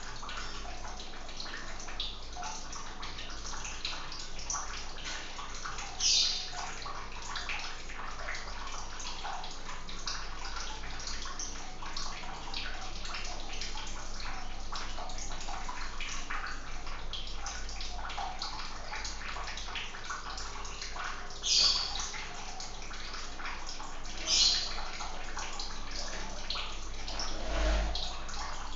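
Water running and splashing steadily, a continuous trickling rush. Three short high-pitched sounds stand out from it, one early and two close together near the end.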